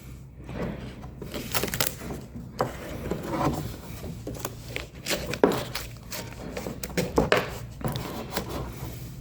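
Handling noise close to the microphone: irregular knocks, clicks and rubbing as the camera is set up on its selfie stick.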